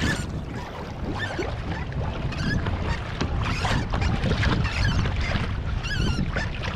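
Pedal fishing kayak under way on the sea: water splashing at the hull over a steady rumble of wind on the microphone, with a few short high squeaks near the end.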